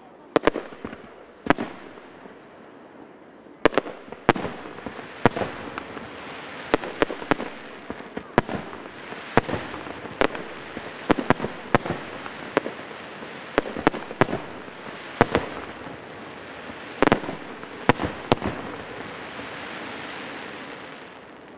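Fireworks display: a rapid, irregular series of sharp bangs from bursting shells over a continuous crackling hiss, which dies away near the end.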